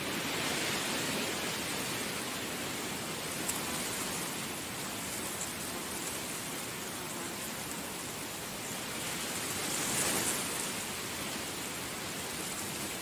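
Heavy rain falling steadily, a dense even hiss with a brief swell about ten seconds in.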